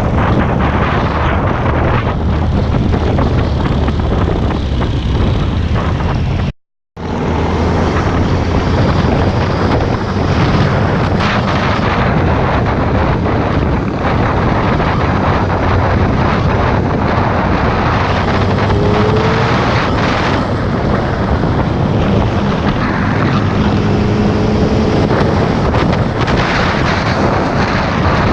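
Motorcycle riding at speed: heavy wind rush on the microphone over the steady drone of the engine, cut off for a split second about a third of the way in.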